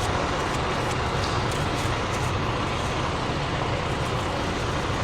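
Steady low rumble of the truck's engine running, heard inside the cab, with a few faint light clicks.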